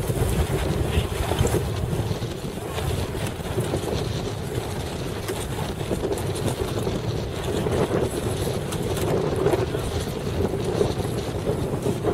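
Heavy wind buffeting the microphone: a steady, gusty rush of noise out on the water.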